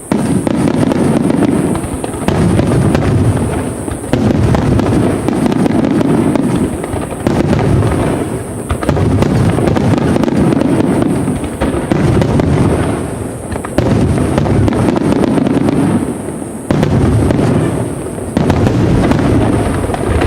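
Aerial fireworks bursting in a dense, continuous barrage: overlapping low booms and rapid crackling, with a new wave of bursts roughly every two seconds.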